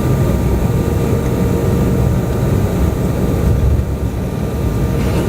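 Airliner cabin noise: the engines and airflow make a steady low rumble, with a faint steady whine over it, as the plane rolls on the ground after landing.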